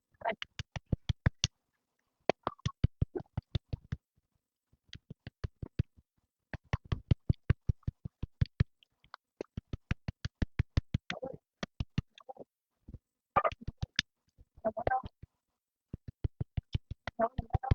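Rapid runs of sharp clicks or taps, about seven or eight a second, each run lasting a second or two and broken by short pauses, with a few brief snatches of voice.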